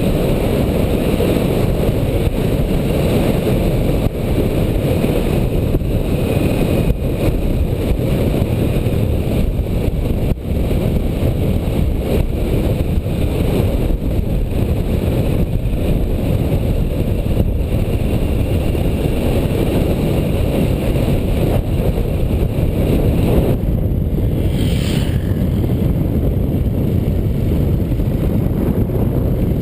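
Motorcycle riding at speed: a steady rush of wind buffeting the microphone over the engine's drone. Near the end there is a brief high falling whistle.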